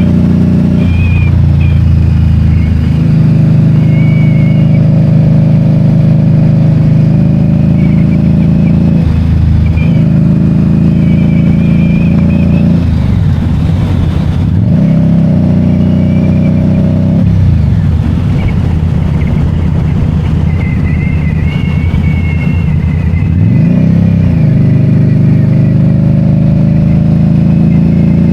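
2022 Indian Scout Bobber's V-twin engine running under way, its pitch dipping and climbing back up about four times as the bike shifts or comes off and back on the throttle.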